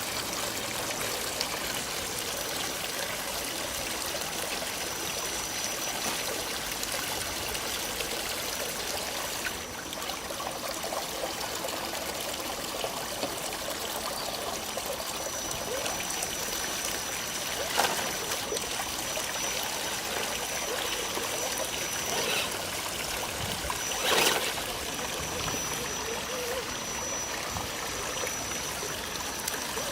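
Steady rush of trickling stream water, with a faint high whine that comes and goes. Two short, louder knocks stand out, a little past halfway and again about six seconds later.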